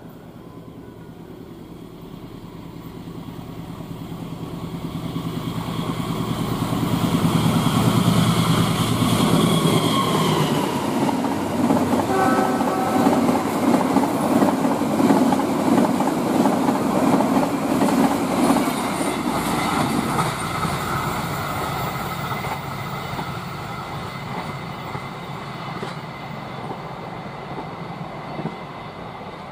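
A diesel-hauled passenger train approaches at speed, its locomotive engine growing louder. The coaches then pass with a dense rumble and clatter of wheels on the rails, and the sound fades as the train pulls away. A short horn note sounds about midway.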